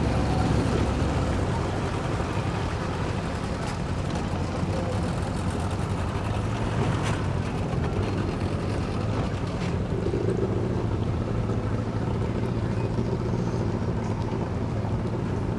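Boat engine running at low speed, a steady low hum.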